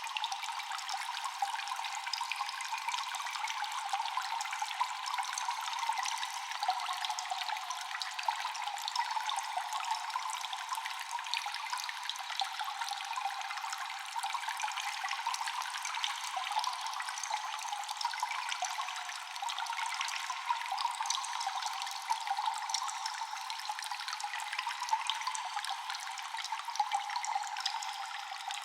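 Water dripping constantly in a cave, echoing. Many small drops fall over a steady trickling wash of water.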